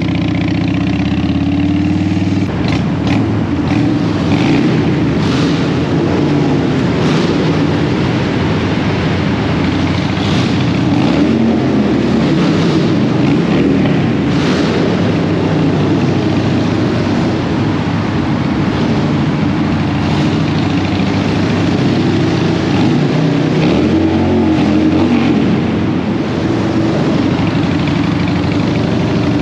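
Harley-Davidson Dyna Super Glide's V-twin engine running under way through city traffic, its note rising and falling as the bike speeds up and slows, over a steady rush of wind noise.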